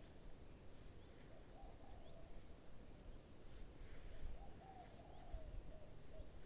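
Steady high-pitched insect drone, like crickets or cicadas, with a low warbling animal call repeating several times beneath it.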